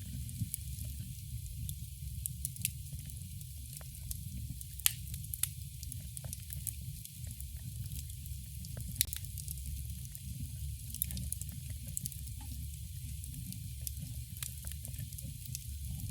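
Campfire burning steadily, wood crackling with irregular sharp pops, the loudest about five and nine seconds in, over a low rumble of the flames.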